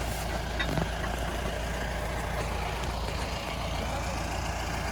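A 4x4 off-road vehicle's engine running steadily, with a short knock or clunk just under a second in.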